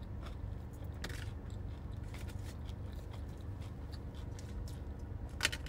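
Close-up chewing and crunching of crispy fried food, breaded shrimp and fries, in short crisp bites with the loudest crunch near the end. A steady low hum sits underneath.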